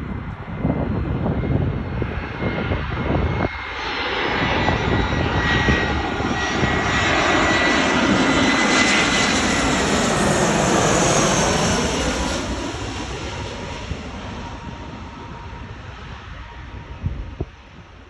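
Airbus A320 jet engines, growing louder to a peak about halfway through and then fading, with a whine that shifts in pitch.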